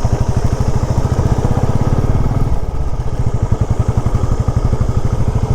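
Motorcycle engine pulling at low speed up a rough, rocky off-road track, its firing beat steady and strong; the engine note eases about halfway through.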